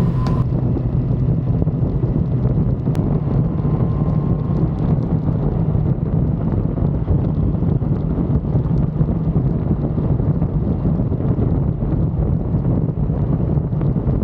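1985 Suzuki GSX-R750F's inline-four engine running at a steady pitch on the move, with wind noise buffeting the microphone.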